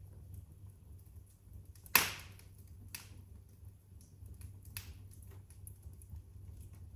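Fire crackling in a fireplace over a low steady rumble, with one loud pop about two seconds in and a few smaller pops and faint ticks after it.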